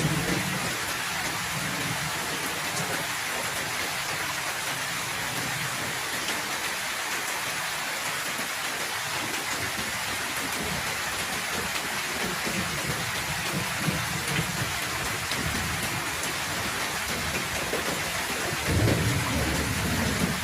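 Heavy rain pouring steadily, with low thunder rumbling several times; the loudest rumble comes near the end.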